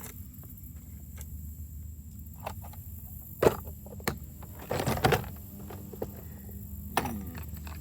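Rummaging through a plastic tackle box for a fishing hook: a few short clicks and rattles of small tackle, with a cluster of them about five seconds in, over a steady low rumble.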